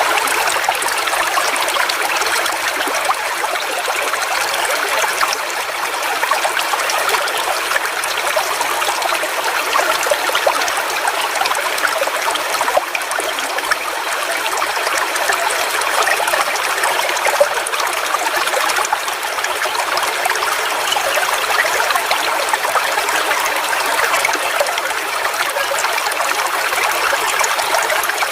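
Forest waterfall: water falling and splashing in a steady, unbroken rush, mostly a bright hiss with little deep rumble.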